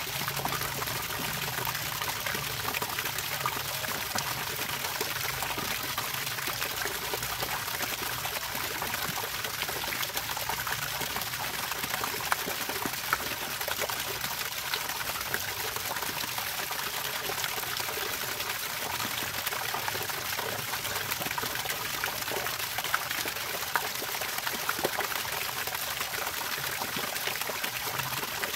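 Running water trickling and splashing steadily, with a few sharper splashes now and then.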